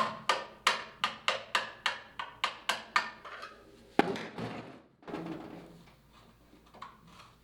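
About a dozen rapid hammer blows on steel, three to four a second, each ringing briefly, driving a tool to pry a seized, broken part off a 1956 VW Beetle transmission. One heavier blow comes about four seconds in, followed by faint clatter.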